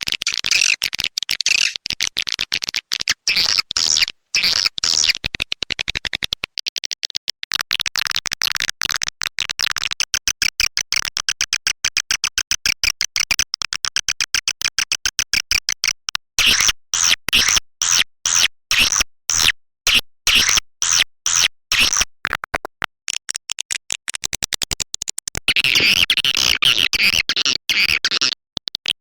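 Swiftlet lure recording: rapid series of sharp swiftlet chirps and clicks, with a very fast, even run of clicks in the middle and denser twittering near the end. It is a 'call sound' played to draw swiftlets into a nesting house.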